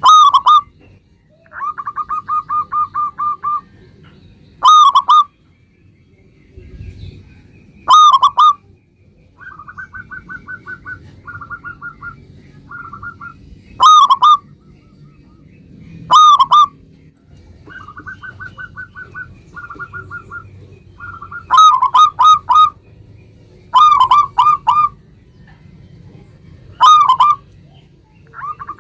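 Zebra dove (local perkutut) calling: loud ringing coo notes every few seconds, sometimes in quick clusters of three or four, with trains of rapid soft staccato notes between them.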